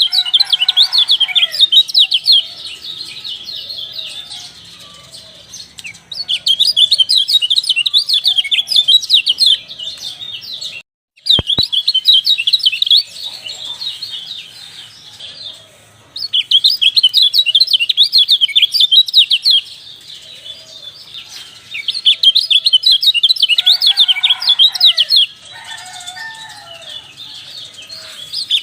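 Kecial dampuk (a white-eye) singing in rapid, high trilling bursts of three to four seconds each, repeated about every six seconds, with softer chirps in between. The sound cuts out briefly once, about eleven seconds in.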